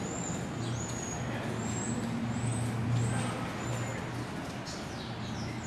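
A series of short, high-pitched chirps, about one or two a second, over a steady low hum.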